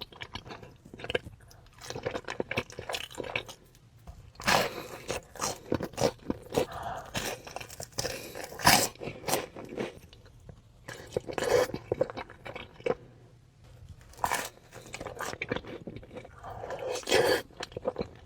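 Close-miked eating: crunchy bites and chewing, a run of sharp irregular crunches with short pauses between mouthfuls.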